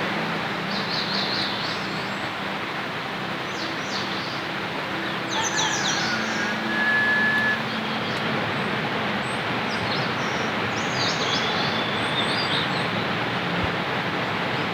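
Steady rain falling, with birds chirping over it in short, scattered calls.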